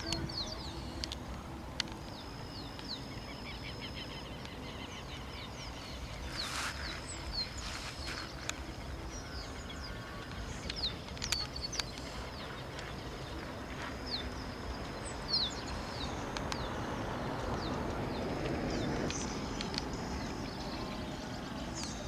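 Small birds chirping: many short, high chirps scattered through, over steady outdoor background noise with a few sharp clicks. A broad rushing noise swells about three-quarters of the way through.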